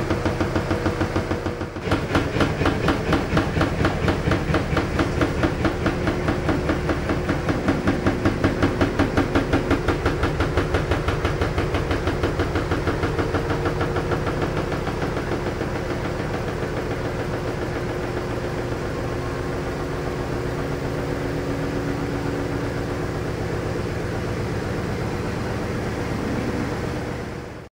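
LG washing machine running with a vibrating noise: a steady hum with a rhythmic pulsing about twice a second, which evens out into a steadier drone after about twelve seconds. This is the abnormal vibration noise that the washer is being checked for.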